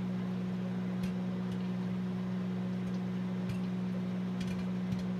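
Microwave oven humming steadily while popcorn pops inside a glass microwave popper, with a handful of scattered pops a second or so apart.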